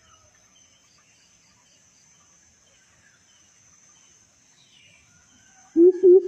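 Coucal (burung but-but) starting its deep hooting call near the end, two low 'boop' notes in quick succession. Before that, a faint steady high insect buzz with scattered small bird chirps.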